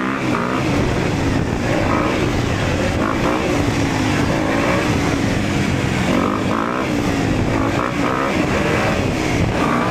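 Dirt bike engine running under way, its pitch repeatedly rising and falling as the throttle is worked on and off.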